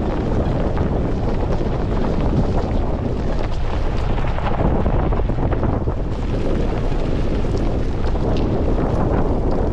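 Wind buffeting the microphone: a steady rumbling hiss, heaviest in the low end.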